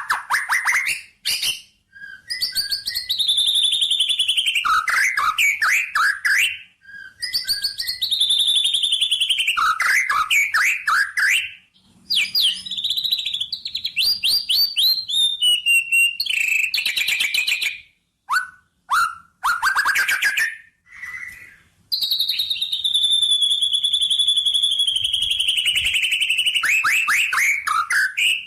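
A songbird singing long phrases of rapid high chirps and trills, each lasting a few seconds, with brief pauses between them.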